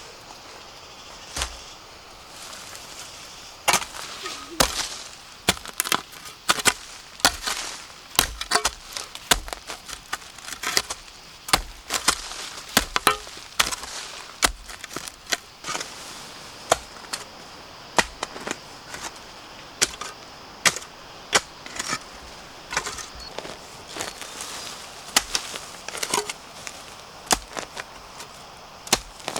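A blade chopping bamboo shoots: an irregular run of sharp chopping strikes, about one or two a second, with short pauses between bursts.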